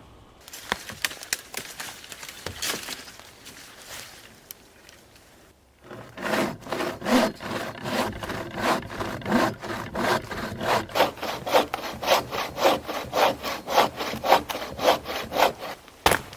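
Hand saw cutting through wood: short, uneven strokes at first, then from about six seconds in a steady back-and-forth rhythm of about two strokes a second.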